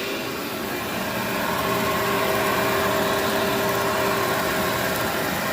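Vacuum cleaner running steadily: a continuous motor whine over airflow noise, a little louder from about a second and a half in.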